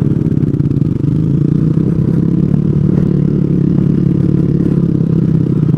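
Small 125cc single-cylinder four-stroke motorcycle engine running at a fairly steady throttle while being ridden along a rough dirt trail, with the pitch wavering slightly.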